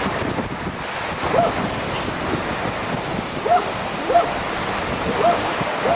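Strong gusty wind buffeting the microphone over surf on the beach, with short pitched calls repeating every second or so.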